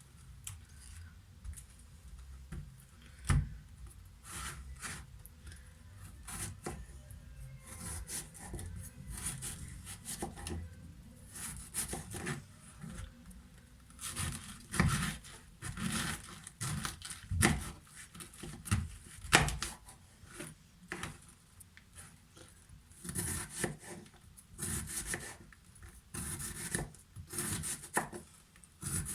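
Red cabbage being sliced with a knife on a cutting board: irregular cutting and scraping strokes, with a few louder knocks of the blade on the board.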